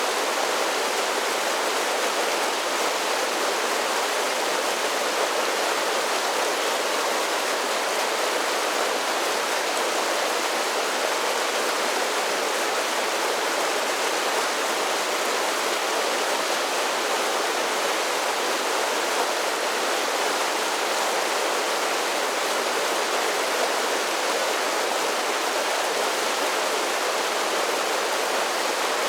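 A series of small waterfalls on a creek, water rushing and splashing in a steady, unbroken stream.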